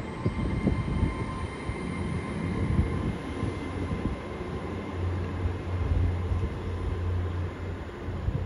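Great Western Railway Class 800/802 bi-mode IET train running slowly past on its underfloor diesel engines. A steady low engine hum over rumbling wheel and rail noise, growing stronger about halfway through, with faint thin high tones.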